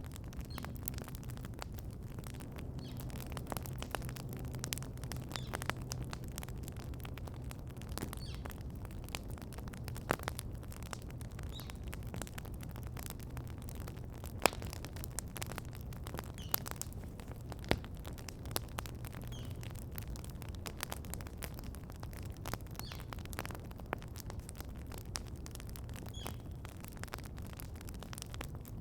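Wood campfire crackling with irregular sharp pops, the loudest about halfway through, while birds chirp faintly every few seconds.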